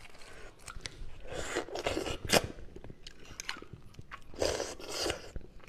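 Close-miked eating of braised beef bone marrow and the meat on the bone: bites and chewing in two short clusters, with a sharp click a little over two seconds in.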